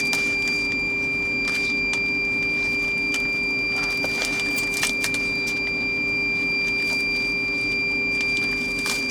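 A steady machine hum with a thin, constant high whine, and a few soft crackles of plastic food packaging being handled now and then.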